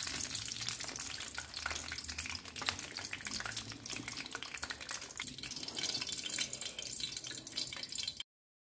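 Momos shallow-frying in hot oil in a pan: a steady sizzle with many small crackles. It cuts off suddenly near the end.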